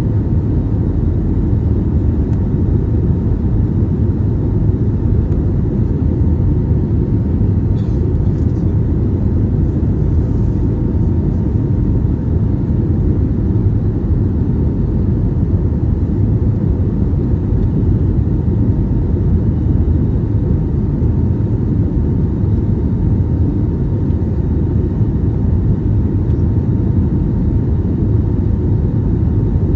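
Steady low cabin roar inside an Airbus A320neo in flight, from its CFM LEAP-1A engines and the airflow over the fuselage, with a faint steady tone above it.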